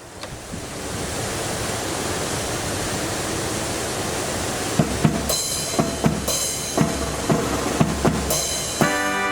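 Strong wind rushing over the microphone in a steady roar of noise; about five seconds in, a marching band's drums start a beat, and brass comes back in near the end.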